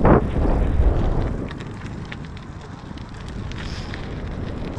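Gravel bike rolling along a track: tyre rumble and wind buffeting the action camera's microphone, loudest in the first second or so, then settling into a steadier rush with a few small clicks.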